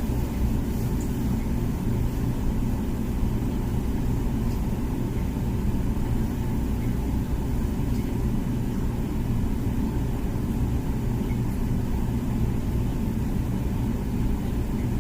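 Comfee dishwasher running its wash cycle: a steady low hum of the wash pump with water circulating inside.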